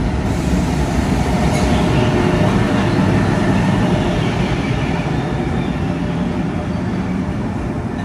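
Train running past on the rails: a steady rumble that is loudest two to three seconds in, then slowly eases.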